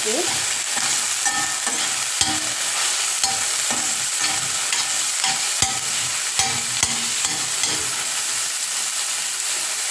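Boiled chicken pieces frying in coconut oil in a pan, sizzling steadily while being stirred, with a spoon knocking and scraping against the pan several times.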